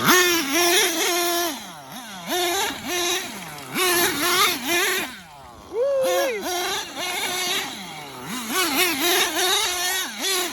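Dynamite Big Red nitro engine of an XTM Mammoth RC monster truck revving up and down over and over as the truck is driven hard. It drops quieter for a moment about five seconds in, then comes back with a short high-pitched rev.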